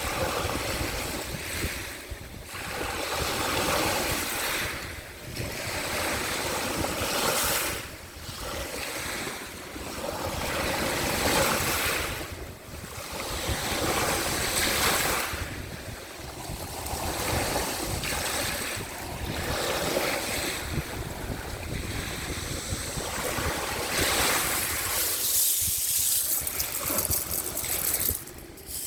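Sea waves washing onto the shore in repeated swells every few seconds, with wind rumbling on the microphone.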